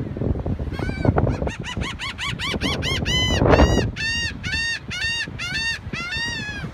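A flock of gulls calling over and over: a quick run of short, arched calls, about three a second, over a low rumble.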